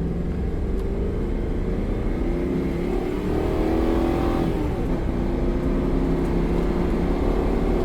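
Land Rover Discovery 2 V8 with a Crower camshaft accelerating hard at full throttle from a standstill. Its pitch climbs, drops as the gearbox shifts up about four and a half seconds in, then climbs again.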